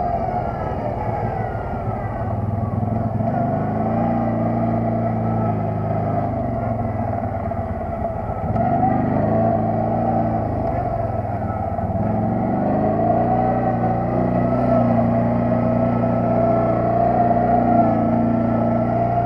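Quad bike (ATV) engine running under way, its revs rising and falling several times, easing off about eight and twelve seconds in and then picking up again.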